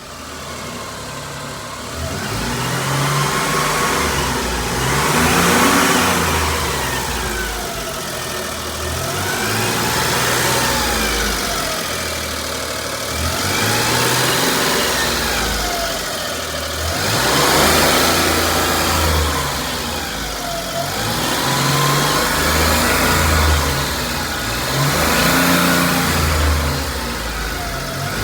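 A 1989 Suzuki Carry kei truck's engine running and being revved up and down over and over, a rise and fall about every three to four seconds.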